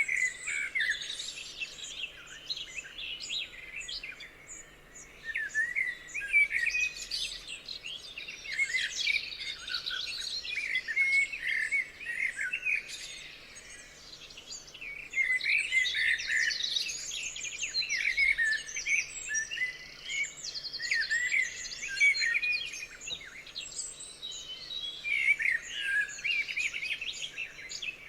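A chorus of several songbirds singing at once, overlapping chirps, trills and whistled phrases in busy bursts.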